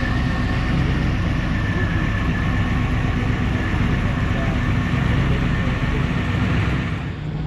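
A truck engine running steadily, with voices in the background. The sound drops off suddenly about seven seconds in.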